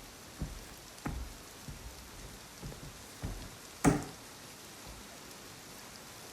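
Steady rain hissing, with scattered irregular thumps like heavy drops or knocks, the loudest a sharp one about four seconds in.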